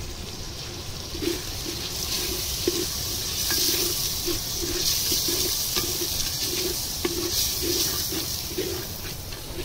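Ground spices frying in hot oil in a clay pot, a dense hiss that swells about a second in and eases near the end, with a soft pulse underneath about twice a second.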